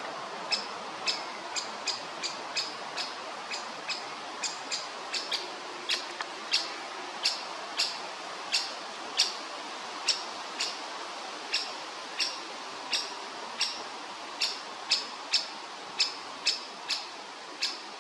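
Woodpecker chick giving short, high begging calls about twice a second, irregularly spaced: a hungry nestling waiting to be fed.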